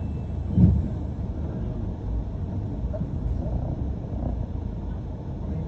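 London double-decker bus running along the road, heard from inside the passenger cabin as a steady low rumble, with a single thump about half a second in.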